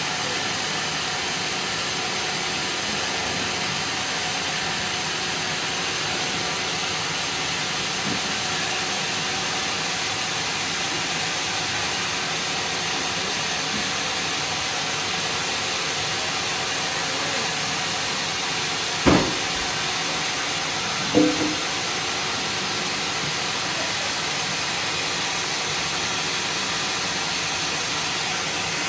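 Steady hissing machine noise at an even level, with two short knocks about two-thirds of the way through.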